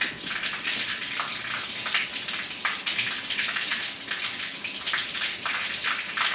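Water spattering and splashing steadily, as pumped out through the bass boat's bilge-pump discharge.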